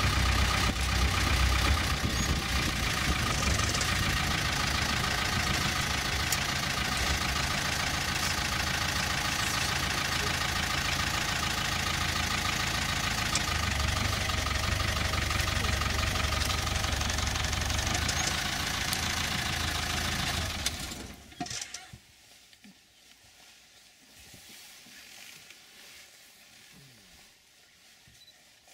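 A vehicle engine running steadily, which stops abruptly about three-quarters of the way through, leaving a much quieter background.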